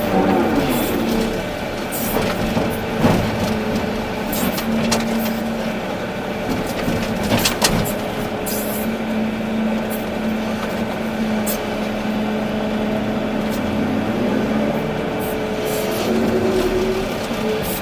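Volvo EC380D excavator's diesel engine running, with a hydraulic whine that holds, drops away and bends in pitch as the machine works, and a few sharp clanks, the loudest about three and seven and a half seconds in.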